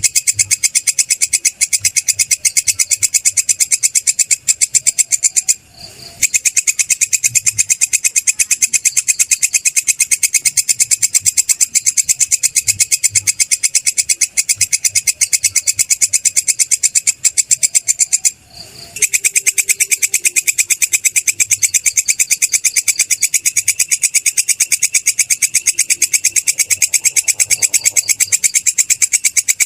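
Belalang kecek grasshopper stridulating: a loud, high-pitched, very rapid buzzing trill that runs on without pause except for two brief breaks, one about six seconds in and one about eighteen seconds in.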